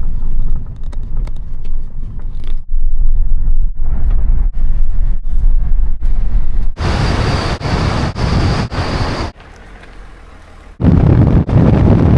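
A truck driving, its rumble mixed with wind buffeting the microphone. The sound drops briefly near the end, then comes back loud.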